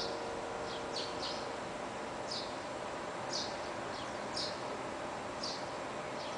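A bird chirping: short high chirps about once a second, sometimes two in quick succession. The hum of the church bells dies away in the first half second.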